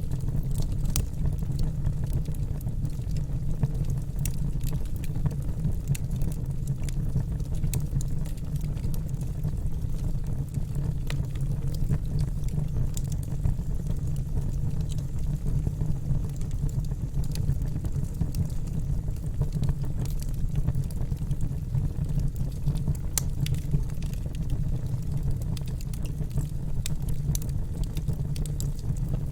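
Campfire burning: a steady low rumble of flames with scattered sharp crackles and pops of burning wood.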